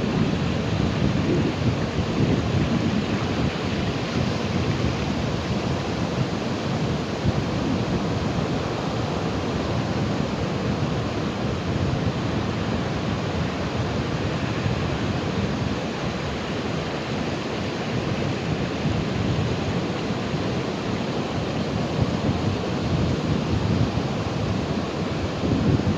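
Ocean surf: waves breaking and washing in as a steady rushing noise with a deep rumble, which swells at the start and again near the end.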